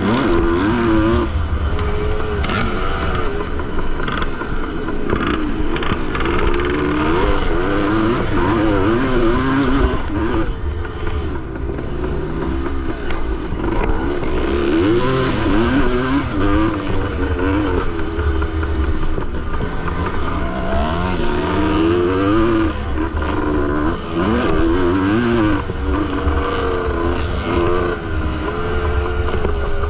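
1973 Yamaha MX250's two-stroke single-cylinder engine racing on a motocross track, its pitch rising and falling continually as it revs up and drops off through the corners and jumps, over a heavy low rumble.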